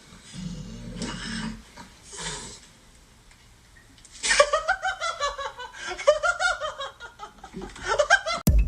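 A person laughing hard in a run of high-pitched bursts, after a few breathy huffs and a short pause. Music with a beat cuts in at the very end.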